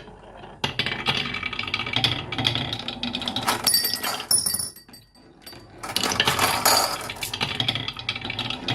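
Marbles rolling and clattering down a wooden marble run, a run of rattling with many small clicks. It breaks off briefly about five seconds in, then starts again.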